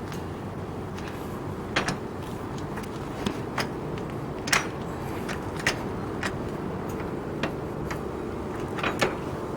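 Homemade tractor's engine running steadily, with scattered sharp clicks and clanks over it.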